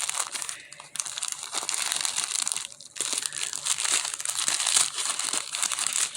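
Crinkly paper or plastic packaging being crumpled and rustled, a dense crackling that pauses briefly just before a second in and again near three seconds.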